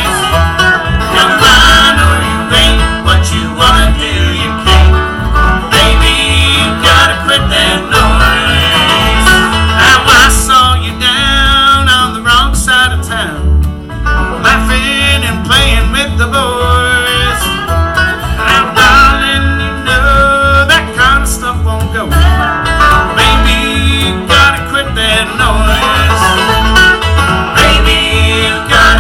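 Bluegrass band playing an instrumental passage: banjo and guitar picking, with a fiddle, over a steady bass beat.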